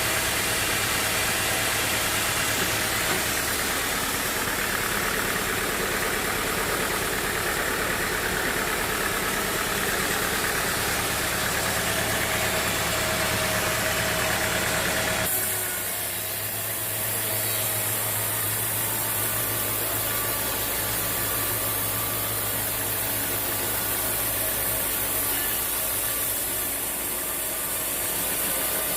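Sawmill engine running steadily. The sound changes abruptly about halfway through.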